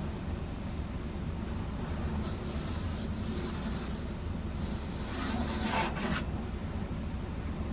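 Steady low rumble inside a parked car, with two brief hissing passes over the car's outside: one about two seconds in, and a shorter, louder one about five seconds in, from washing on the body.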